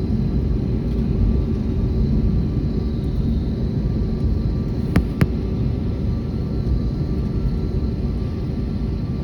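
Airbus A321neo jet engines running with a steady low rumble and a faint high whine. Two sharp clicks come close together about five seconds in.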